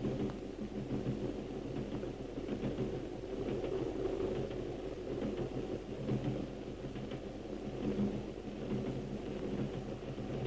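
Steady low rumble of a train running, with faint scattered clicks.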